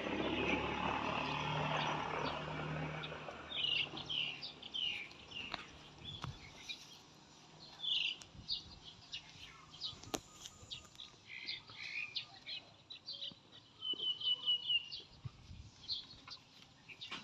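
Small birds chirping repeatedly in short high calls, with a brief rapid trill near the end. In the first few seconds a broad rushing noise with a low hum is louder than the birds, then fades.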